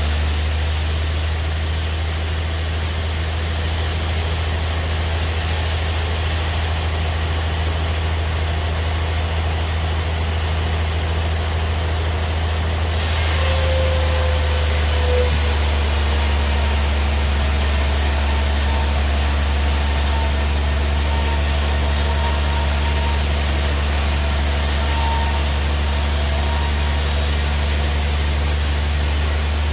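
Band sawmill machinery running with a steady low hum. About halfway through the sound turns brighter with more hiss and stays that way.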